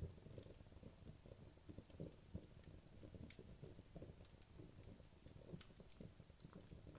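Wood logs burning in a fireplace: faint, scattered sharp crackles and pops over a soft, uneven low flutter of the flames.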